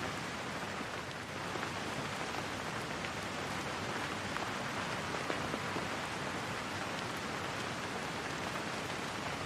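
Steady rain falling: an even hiss with faint scattered drops.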